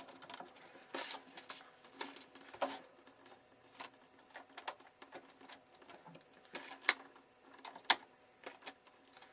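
Irregular clicks, taps and knocks of hands handling a desktop PC and its cables, with two sharper knocks about seven and eight seconds in, over a faint steady hum.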